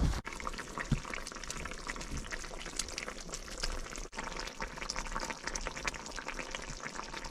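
Food cooking on a heating stove, giving a steady bubbling with many fine crackles.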